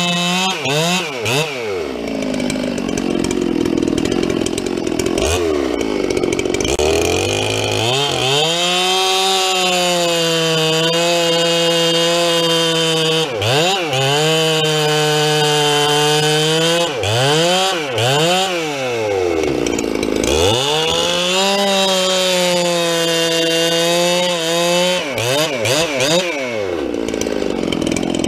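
Two-stroke chainsaw cutting firewood at high revs. Its pitch sags under load in the cut, and several times it drops to idle and revs back up between cuts.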